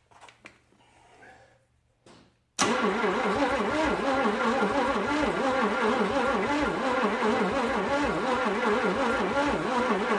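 1956 Chevrolet 265 small-block V8 cranking over on its starter, kicking in suddenly about two and a half seconds in and turning over with an even pulsing rhythm without catching. It fails to fire, a sign of no spark, which the owner goes on to check at the coil and the points.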